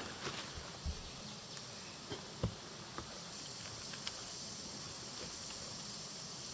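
Forest ambience: a steady high chirring of insects, with a few short, light knocks and taps, the loudest about two and a half seconds in.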